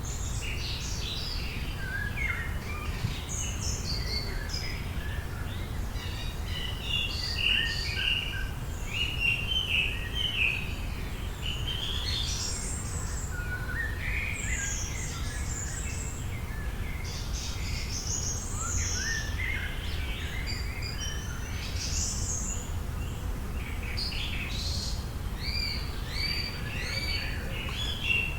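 Several birds singing and chirping at once, short overlapping calls and trills, over a steady low rumble.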